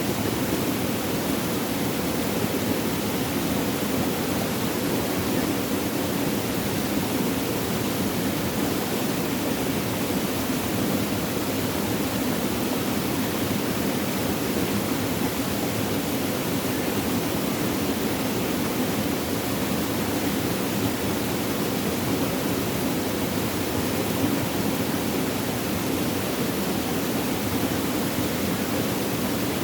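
Flowing water, a steady rushing and babbling that does not change.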